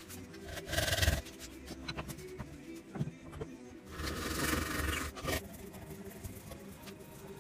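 Hand tool scraping on wood, with two longer, louder strokes: one about a second in and one from about four to five seconds, among lighter scrapes and taps.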